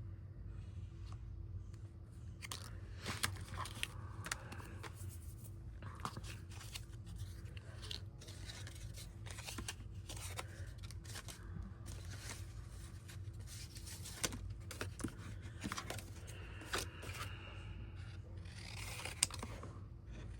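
Paper being cut with scissors and handled on a craft table: scattered snips and short rustles of paper, over a steady low hum.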